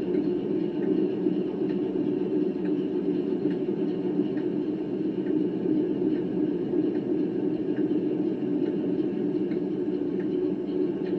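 Class 08 shunter diesel engine sound from an Engineman DCC sound card, played through the model locomotive's speaker, idling steadily after a cold start. A faint tick recurs about once a second.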